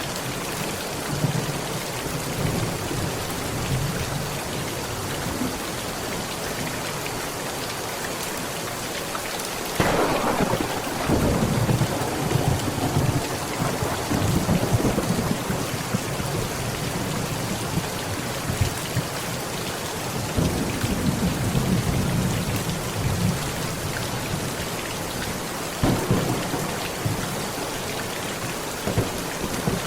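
Heavy rain pattering steadily on a tent, with thunder. A sudden crack about a third of the way in rolls into several seconds of rumbling, more thunder rumbles a little later, and another sharp crack comes near the end.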